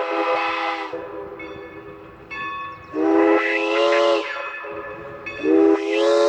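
Steam locomotive whistle of New Hope Railroad No. 40 blowing a series of blasts: one ends about a second in, a long blast sounds in the middle, and another starts near the end and holds. Fainter, higher whistle tones sound in the gaps.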